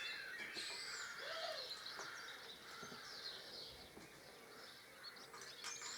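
Birds chirping and singing in the background, many short calls and glides, over a low outdoor hush, with a faint click or two.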